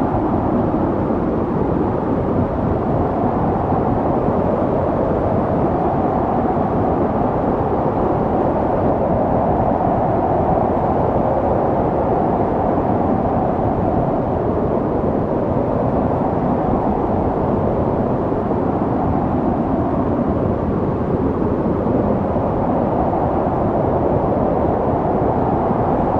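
Snowstorm wind blowing steadily: a dense, low rushing sound with a faint howl that swells and fades slowly.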